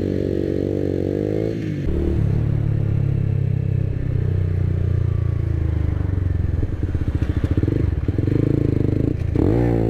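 Honda CBR125's small single-cylinder engine running under way. A steady note drops off about a second and a half in as the throttle closes, a lower, steady note follows, and the engine starts to rev up near the end.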